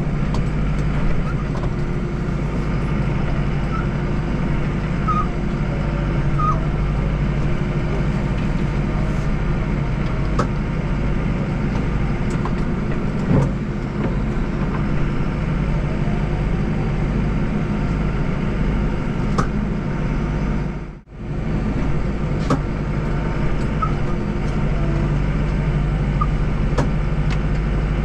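Diesel tractor engine running steadily under a working load. The sound briefly drops out about 21 seconds in.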